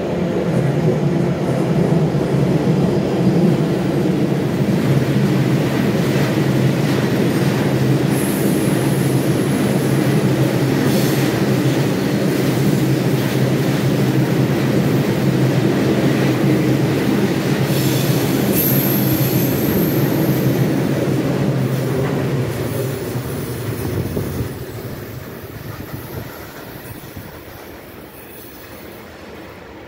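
Train passing close by: a loud, steady running noise for about twenty seconds, with two brief high-pitched wheel squeals, then fading away over the last several seconds.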